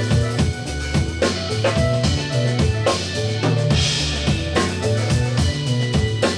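Live band playing an instrumental passage: a drum kit keeps a steady beat with bass drum and snare under sustained bass notes and other instruments, with a cymbal wash just before the middle.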